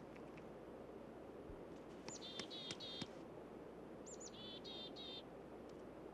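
A small songbird calling twice over a faint steady background hiss. Each call is a high sweeping note followed by a quick run of about four lower repeated notes.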